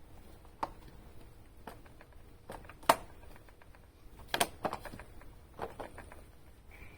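Scattered light clicks and knocks of small hard objects being handled, the sharpest about three seconds in and a quick cluster of them around four and a half seconds.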